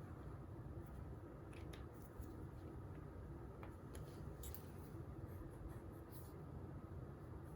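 Faint, scattered scratches of a pen or pencil writing on paper, a few short strokes over a steady low room hum.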